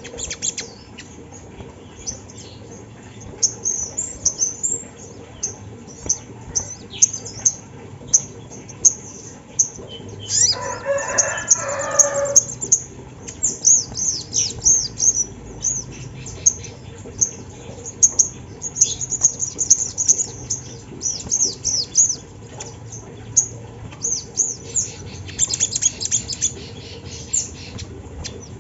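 Little spiderhunter (sogok ontong) singing: rapid bursts of very high, thin chirps and downward-sweeping notes, on and off throughout. About ten seconds in, a lower-pitched call lasts for about two seconds.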